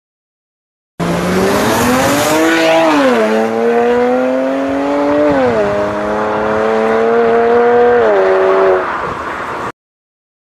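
BMW 335i (E92) coupe with an iPE (Innotech) valved sport exhaust accelerating hard through the gears. The exhaust note climbs in pitch and drops sharply at three upshifts, then cuts off suddenly.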